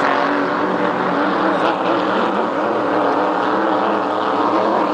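Race boat engine running steadily on the water, its pitch wavering slightly.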